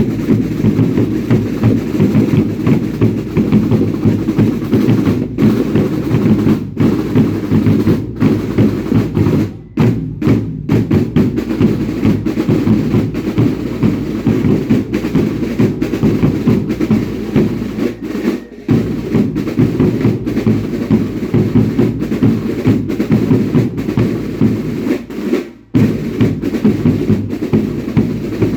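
Dense, fast drumming on bass and snare-type drums played by a folk dance troupe, with a few brief breaks in the beat.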